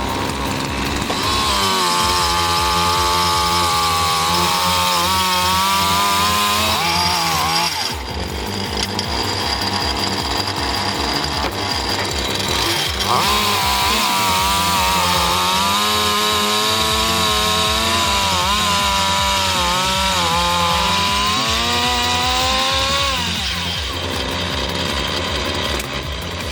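Two-stroke chainsaw on a chainsaw mill running under load through long cuts, its pitch wavering and sagging as it bites. The cutting comes in two long stretches with a rougher, less steady stretch in the middle.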